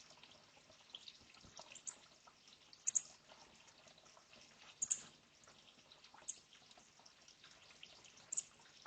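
Sunbirds giving short, very high-pitched chirps, a few scattered single and double notes about every two seconds, over a faint steady trickle and drip of water.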